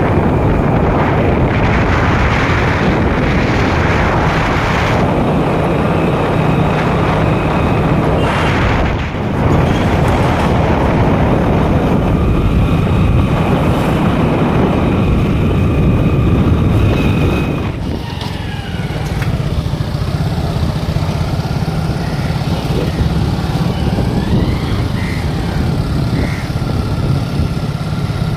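Road ride on a motorcycle: steady, loud engine and traffic noise, dropping a little about eighteen seconds in.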